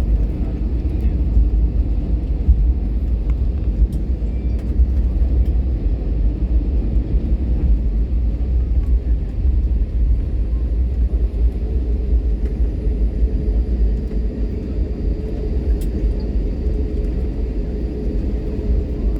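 Steady low rumble inside an airliner's cabin as it taxis after landing, with a faint steady hum joining in about two-thirds of the way through.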